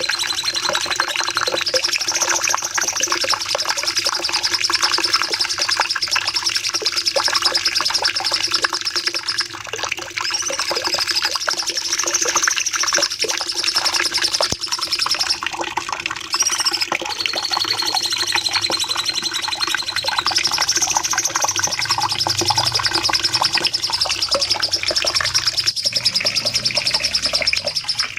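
Cucak cungkok singing long, rapid trilled phrases one after another with brief breaks, over a steady low hum and background hiss.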